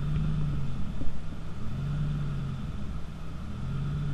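A car engine idling: a low steady rumble whose hum swells and eases about every two seconds.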